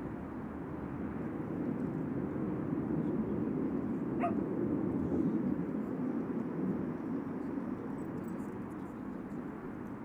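Distant jet aircraft rumble that swells over a few seconds and then eases off, with one brief high rising yelp about four seconds in.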